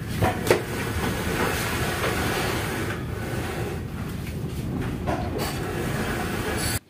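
Passenger train running along the track: a steady rumble with a few sharp clicks of the wheels over rail joints near the start and again about five seconds in. It cuts off abruptly near the end.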